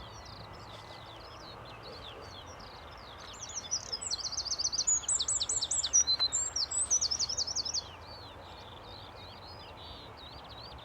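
Songbirds singing outdoors, with one bird close by giving a loud run of rapid, repeated high notes and trills for about four seconds midway. A faint steady low hum runs underneath.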